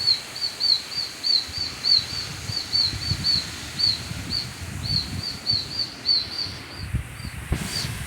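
Baby birds screaming: short, shrill chirps repeated about three or four times a second, which the listener takes as distress calls. Gusting wind and rain rumble underneath.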